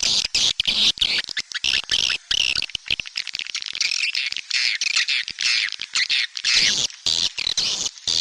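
Swiftlet lure call: a dense, rapid chattering and twittering of many swiftlets, unbroken by pauses. It is the calling sound ('suara panggil') played in swiftlet houses to draw the birds in to roost and nest.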